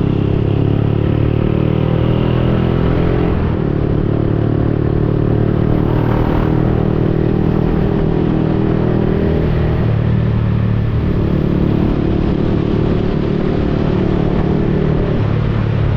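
Yamaha XSR 155's single-cylinder engine through a replica Akrapovic aftermarket exhaust, running under way. Its note steps to a new pitch several times, around a quarter of the way in, twice in the middle and again near the end.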